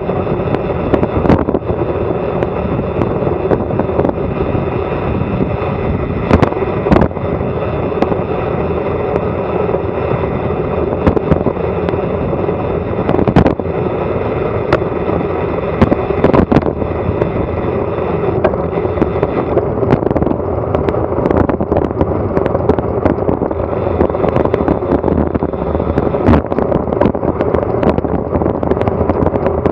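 Wind buffeting a bicycle-mounted action camera's microphone during a fast downhill ride, a loud steady rush, with sharp knocks from bumps here and there.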